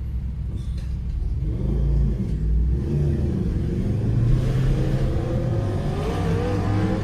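Jet ski engine running and speeding up, its pitch climbing gradually from about a second and a half in, over a low rumble.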